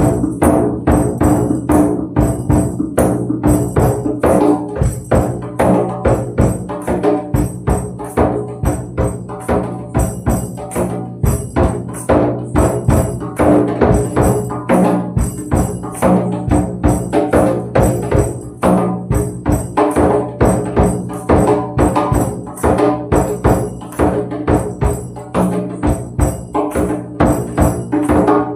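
Hand percussion played in a fast, steady rhythm: drum strikes with tambourine jingles, over low sustained ringing tones.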